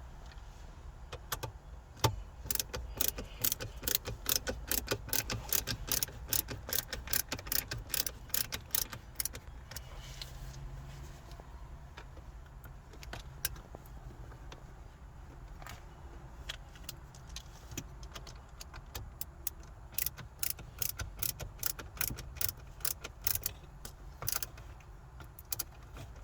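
Rapid, irregular metallic clicks and rattles of tools and parts being worked on a car's gear shifter assembly, thinning out mid-way and picking up again, over a steady low hum.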